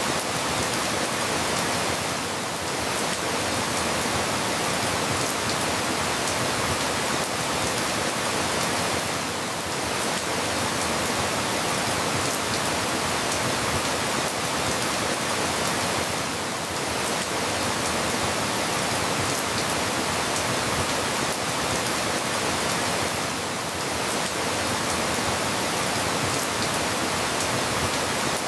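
Steady, dense rainfall, with a slight dip in level about every seven seconds.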